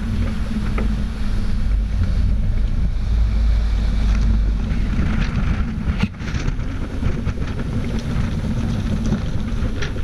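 Wind buffeting the microphone aboard a sailing yacht in heavy seas, over a steady low rumble and the rush of water.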